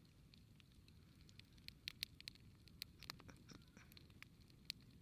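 Campfire crackling faintly: burning wood giving irregular small pops and snaps, several a second, over a low rumble.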